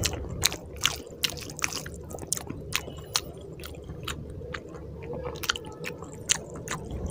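A person chewing a mouthful of rice and egg curry close to the microphone, with wet smacks and mouth clicks coming irregularly several times a second.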